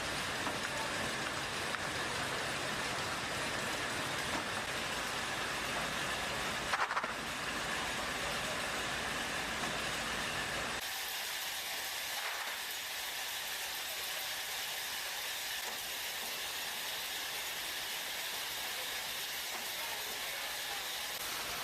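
Steady noise of factory machinery: a dense, even hiss over a low rumble. A brief knock comes about seven seconds in, and about eleven seconds in the rumble drops away, leaving a thinner steady hiss.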